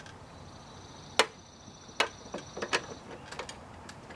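Sharp metallic clicks and light knocks from hands fitting a gas lift-support strut onto its mounting on a 2001 Jeep Grand Cherokee's rear hatch. The loudest click comes about a second in, with a scatter of smaller ones later, over a faint high steady tone.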